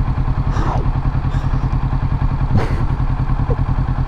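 2020 Kawasaki Ninja 650's parallel-twin engine running at low, steady revs with an even pulse. Two brief higher-pitched sounds pass over it, about half a second in and again past the middle.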